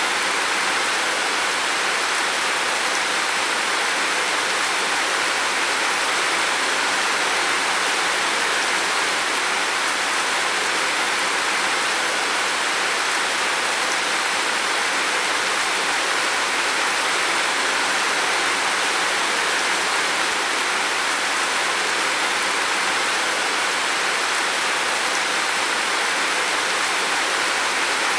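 Heavy rain falling steadily on a roof, a dense, even hiss without separate drops or pauses.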